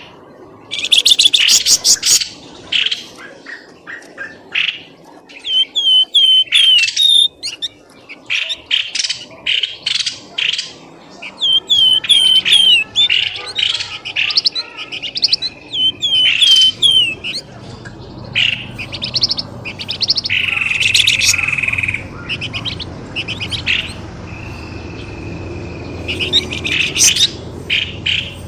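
Birds calling continuously: bursts of rapid high chirps and trills, repeated series of short down-slurred whistled notes, and a buzzy held trill past the middle.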